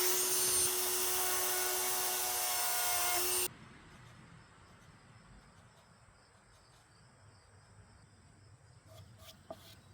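Electric power-carving tool running steadily as it grinds into wood, with a held whine; it cuts off abruptly about three and a half seconds in. Then only faint room tone, with a few light clicks near the end.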